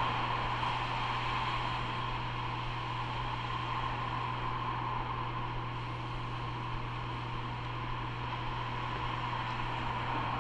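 Self-service petrol dispenser pumping gasoline into a motorcycle's tank: a steady hum with the hiss of fuel flowing, unchanging throughout.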